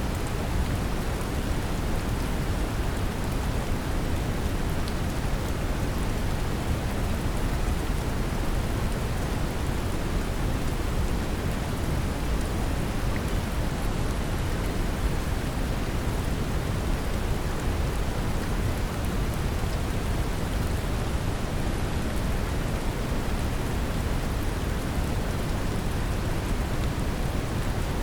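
Steady brown noise mixed with the even hiss of gentle rain, deep and rumbling, unchanging throughout.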